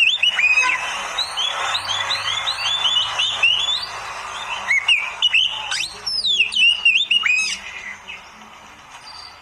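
Oriental magpie-robin (kacer) singing: fast, varied phrases of whistled notes and sweeping chirps, easing off into a short lull near the end.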